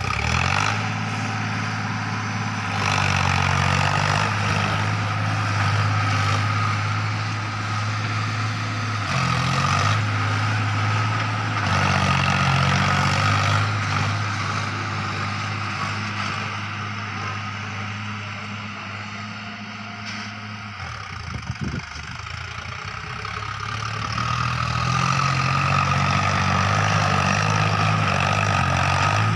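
Sonalika tractor's diesel engine running steadily. It grows quieter around the middle and louder again near the end.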